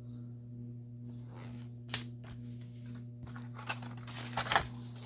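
Packaging and small parts being handled: rustling and crinkling with scattered light clicks, the loudest a little before the end, over a steady low hum.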